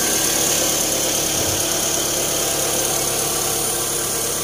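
Freshly installed replacement engine in a 2009 Toyota Camry idling steadily.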